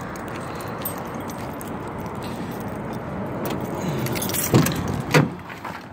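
Keys jangling while unlocking a truck door, with two sharp knocks near the end.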